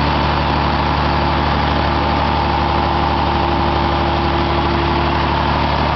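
Engine fuelled on biogas running steadily at an even, unchanging speed.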